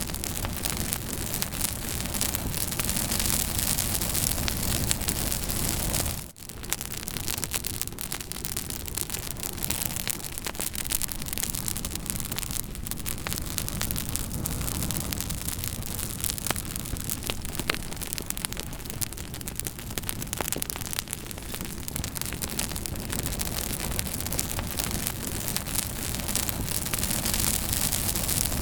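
Campfire burning, with frequent sharp crackles and pops over a steady hiss. The sound briefly drops away for a moment about six seconds in.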